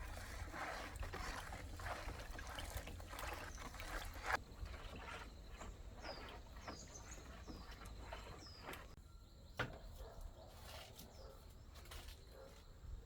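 Faint outdoor sounds: irregular rustling and light knocks, then a bird chirping about five short high notes in the middle.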